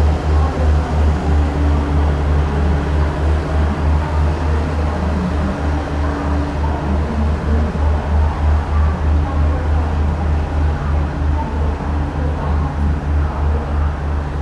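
Diesel train engine idling with a steady low throb of about three pulses a second.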